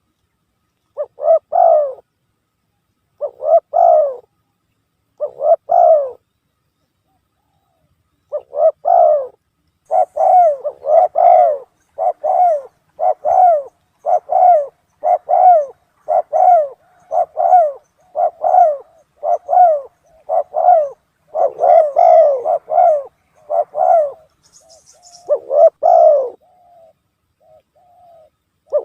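Spotted dove cooing, played as a recorded lure call to draw in wild doves. Three coo phrases come about two seconds apart. After a short pause there is a steady run of coos about one a second, and a few faint high chirps near the end.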